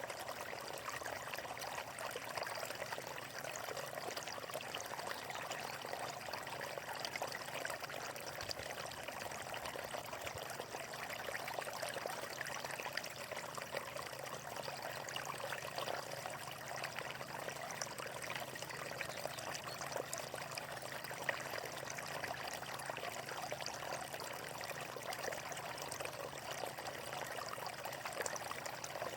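Flowing water, a steady trickling, splashing stream flow.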